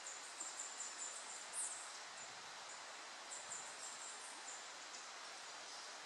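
A small bird calling in very high, thin notes: a quick string of short chips, then a single louder note, then another string of chips about halfway through, over a steady background hiss.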